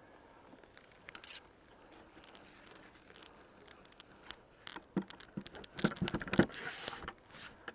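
Handling noises while working a beehive: a run of light knocks, clicks, scrapes and rustles, sparse at first and busiest and loudest about five to six and a half seconds in.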